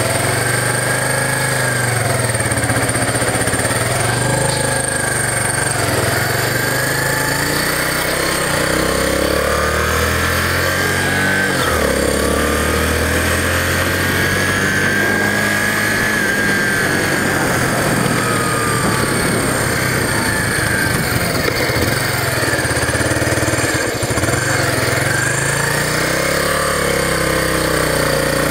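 Yamaha SR250's single-cylinder four-stroke engine running under way, its pitch rising and falling repeatedly with throttle and gear changes. Just after a cold start it runs well with the choke off.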